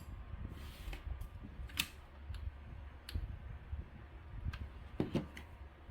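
Scattered small clicks and taps with a brief rustle, from hands handling ribbon and craft materials on a table, over a low steady hum.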